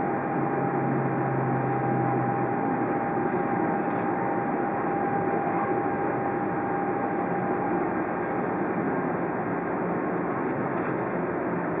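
Tohoku Shinkansen train running noise heard from inside the passenger car as the train pulls slowly into the station along the platform: an even rumble with a thin steady whine that stops about two-thirds of the way through, and a low hum that drops out about two seconds in.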